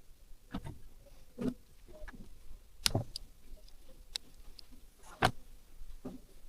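Scattered knocks and clicks of hand tools and small metal parts being picked up, set down and fitted, five or six separate hits with the loudest about three seconds in and again past five seconds.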